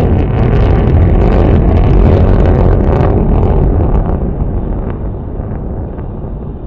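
Jet aircraft engine noise: a loud, low rumble that holds for about four seconds and then begins to fade.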